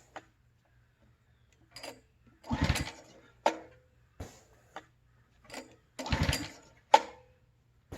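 Two pulls on the recoil starter of a Simpson ALH3228-S pressure washer's engine, about four seconds apart. Each is a short cranking rattle followed by a sharp clack. The engine turns over but does not fire.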